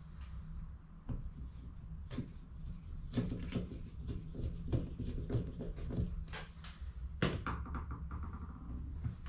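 Irregular plastic clicks and knocks from handling and assembling HP CE285A toner cartridges during refilling, with quick runs of clicks in the middle and again near the end, over a steady low hum.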